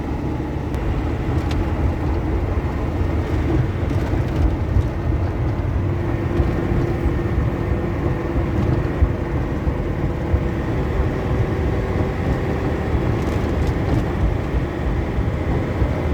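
A GAZelle truck with a Cummins diesel engine cruising steadily on the road: an even engine hum under road and tyre noise.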